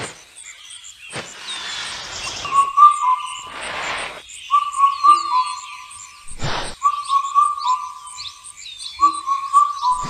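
Birdsong: a whistled phrase repeated about every one and a half seconds, with short high chirps and quick gliding calls over it, and three whooshing swells of noise.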